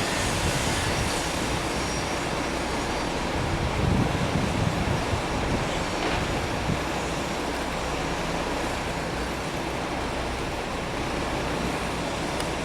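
Steady roar of jet airliner engines, holding level without rising or falling.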